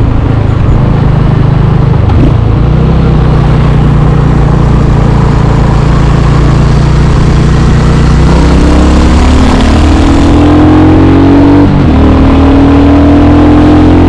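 Royal Enfield Hunter 350's single-cylinder engine running on the move. It is steady at first, then rises in pitch as the bike accelerates from about eight seconds in. Near the end there is a short break in the sound before it climbs again.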